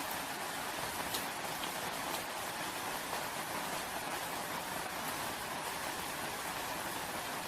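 Steady rainfall, an even hiss with faint patters of individual drops.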